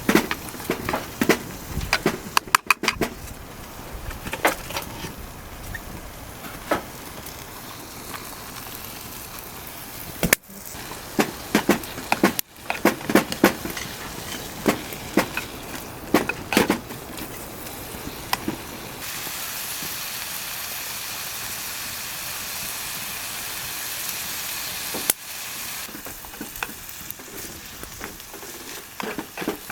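Food sizzling in a hot pan, with scattered clicks and knocks of utensils against the pan. For about six seconds past the middle the sizzle turns steadier and louder, then drops away suddenly.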